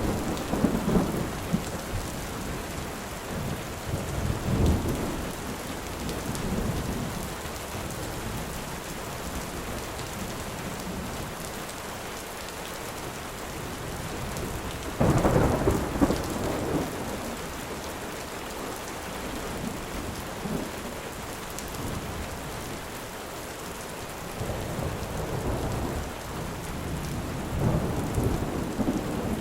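Steady heavy rain with rolling thunder: a loud thunderclap and rumble about halfway through, and softer rumbles near the start and near the end.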